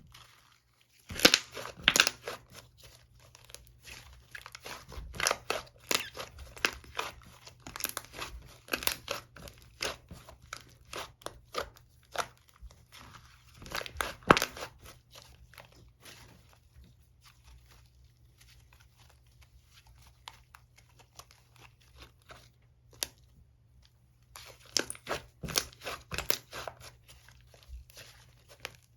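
Mint-chocolate bubblegum slime being squished and worked by hand, giving clusters of fast sticky clicks and crackles. They thin out to a few scattered clicks in the middle, then pick up again near the end.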